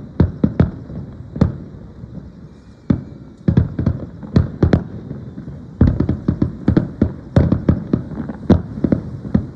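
Aerial firework shells bursting in quick, irregular volleys of sharp bangs. There is a short lull about two seconds in, then a dense run of bursts.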